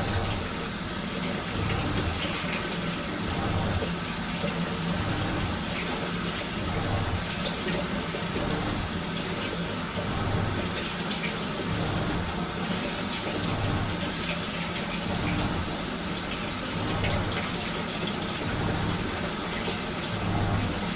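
Washing machine running a wash cycle, water sloshing and swishing in the turning drum, with a low surge repeating about every second and a half.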